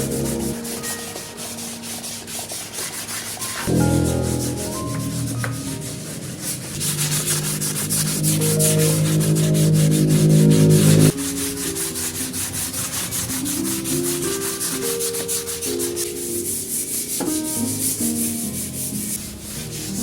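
Rapid, repeated scrubbing strokes against a surface, with background music playing under them.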